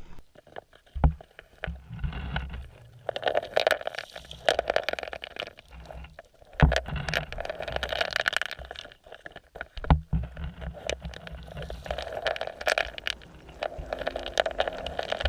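Water sloshing and bubbling in irregular swells, with a few dull knocks.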